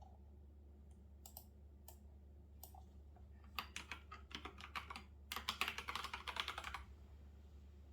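Typing on a computer keyboard: a few scattered keystrokes, then a run of keystrokes from about halfway in, fastest near the end before it stops.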